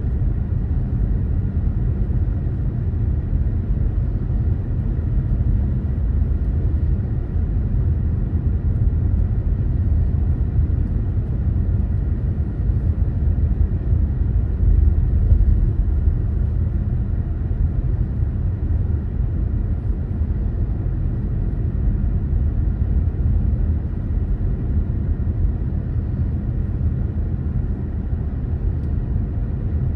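Steady low road and engine rumble of a car being driven, with no sudden events.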